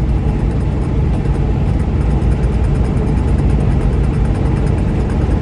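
Steady engine and road rumble of a running vehicle, even in level throughout.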